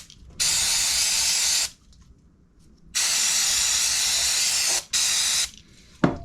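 Aerosol brake and clutch cleaner sprayed in three hissing bursts, the middle one the longest, followed by a sharp click near the end.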